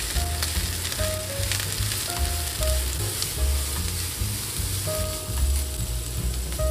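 Grated carrot and onion sizzling in hot oil in a frying pan while a wooden spatula stirs them, with soft background music playing over it.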